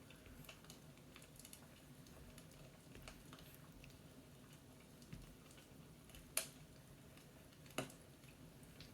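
Faint fireplace crackle: a low steady hiss with scattered small ticks and a few sharp pops, the loudest about six and a half seconds in and another near eight seconds.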